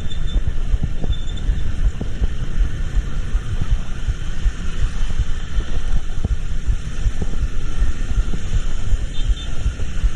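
Steady low rumble of a moving vehicle, fluttering unevenly in loudness, with faint high tones coming and going.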